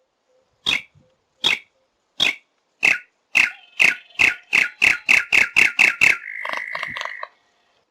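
A bird calling: short sharp notes that speed up from about one every three-quarters of a second to several a second, then run into a buzzy trill that lasts about a second.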